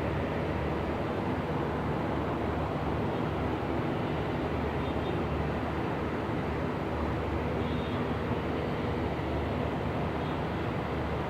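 Steady, even rumble and hiss with no distinct events.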